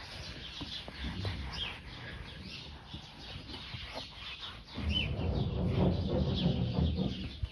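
Small birds chirping now and then, short high calls that drop in pitch. Over the second half, a louder low rubbing rumble of handling noise lies under them.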